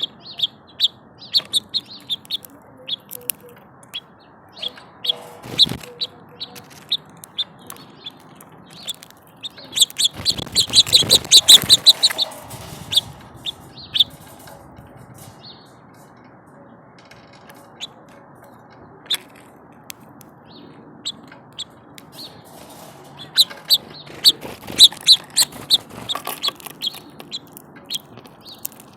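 Small birds chirping in short, high peeps, thickening into two busy flurries of chirping, about ten seconds in and again about twenty-four seconds in.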